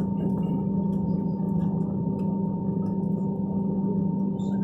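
Steady hum inside the cabin of a parked Airbus A320, with a strong low tone and fainter higher tones over a low rushing bed.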